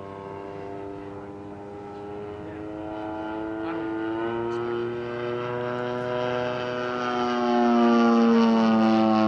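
Engine and propeller of a large RC scale Super Decathlon model airplane droning in flight. The sound grows louder as the plane closes in, peaks near the end, and its pitch drops as it passes.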